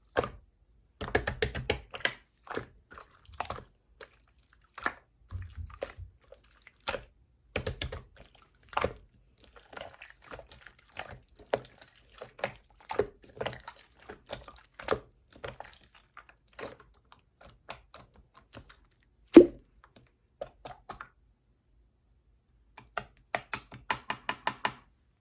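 Clear slime being squeezed and poked by hand, giving irregular sticky clicks and pops. One louder pop comes about nineteen seconds in, and after a short pause a quick run of pops near the end.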